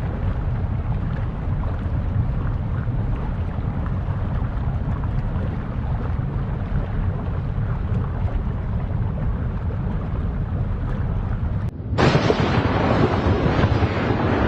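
Steady low rumbling noise of wind buffeting the microphone. About twelve seconds in it cuts off abruptly and gives way to a louder, hissier rush.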